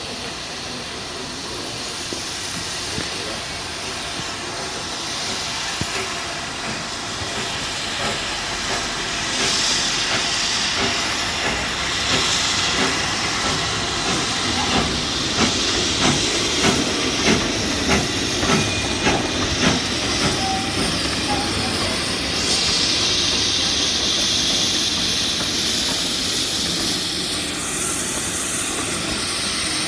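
Steam locomotive running, growing louder over the first few seconds, with hissing steam. In the middle comes a run of sharp, evenly spaced clicks, about one and a half a second, and strong bursts of high hiss come about a third and three quarters of the way through.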